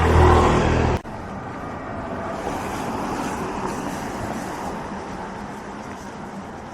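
A motor vehicle's engine running close by, a low steady hum, cut off abruptly about a second in. It is followed by a steady hiss of street traffic that slowly fades.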